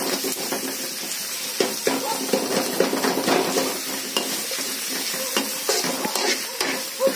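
Onions with grated ginger and garlic sizzling in hot oil in a kadhai while a spatula stirs them, scraping and tapping against the pan.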